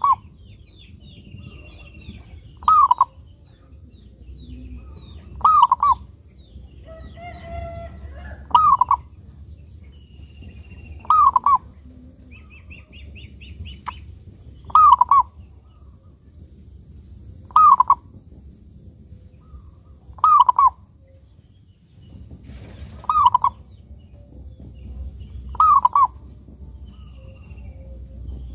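Zebra dove (perkutut) cooing: the same short call repeated about every three seconds, about ten times. Faint high chirps of other small birds sound between the calls.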